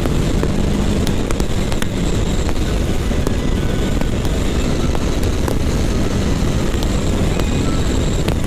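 Kawasaki Ninja 650's parallel-twin engine running steadily under way, ridden hard downhill, with wind rushing over the microphone.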